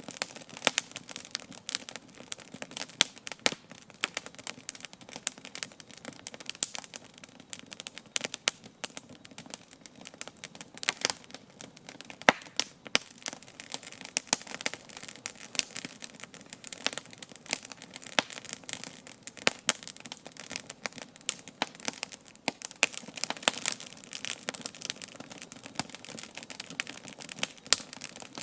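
Wood campfire crackling, with a steady stream of irregular sharp pops and snaps over a soft hiss of burning.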